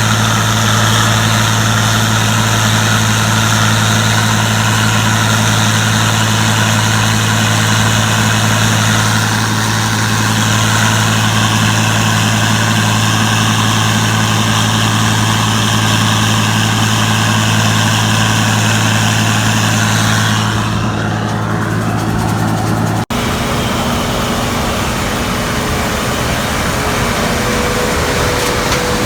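Large diesel engine of harvest machinery running steadily under load, a constant low hum with a lot of mechanical noise above it. The sound changes abruptly after a brief break about 23 seconds in.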